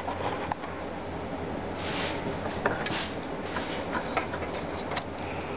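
Alcohol-dampened cotton swab rubbing old thermal paste off, a steady scratchy scrubbing with scattered small clicks and taps.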